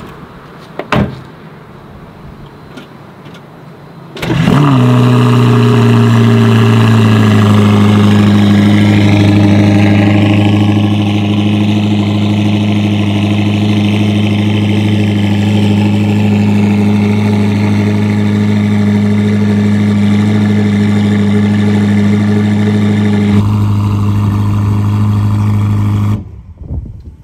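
Ferrari SF90 Spider's 4.0-litre twin-turbo V8 hybrid engine cold-starting about four seconds in with a brief flare in revs, then idling steadily, its pitch easing slightly lower over the next few seconds. A single click comes before the start, and the idle cuts off near the end.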